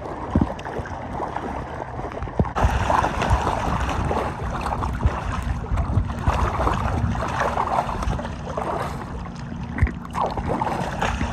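Choppy lake water sloshing and splashing around a small paddle craft, with many small splashes; the water noise grows louder about two and a half seconds in.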